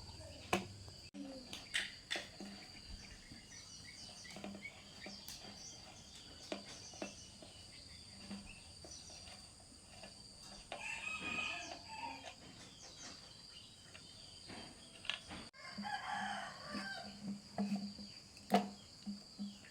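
A rooster crowing twice, about ten seconds in and again about sixteen seconds in, over scattered sharp clicks and knocks and a steady high-pitched whine.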